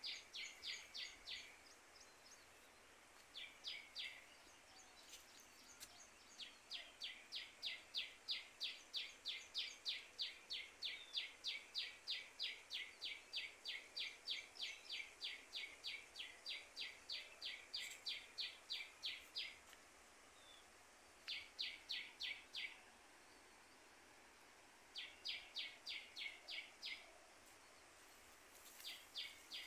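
A bird calling outdoors: a fast run of short, high chirps, about four a second, in long bouts broken by brief pauses, over faint outdoor background noise.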